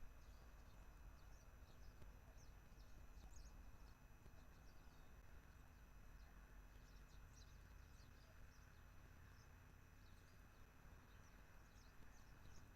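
Faint outdoor ambience: small birds chirping faintly in scattered clusters over a steady low rumble of wind.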